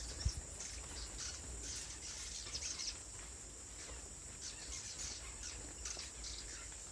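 A cave full of swiftlets calling: many short, high chirps and clicks overlapping throughout, over a steady high hiss.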